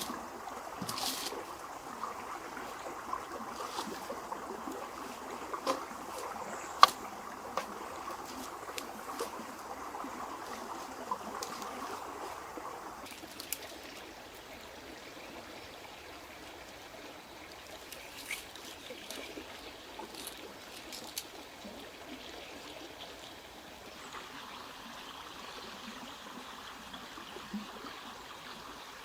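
Water trickling and flowing, with scattered small clicks and knocks. The water sound grows softer about halfway through.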